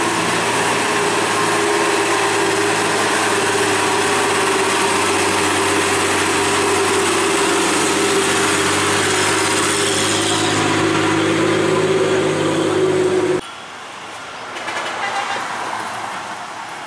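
Heavy truck's diesel engine labouring under load up a steep climb: a loud, steady drone with a low hum. It cuts off abruptly about thirteen seconds in, leaving a much quieter vehicle sound.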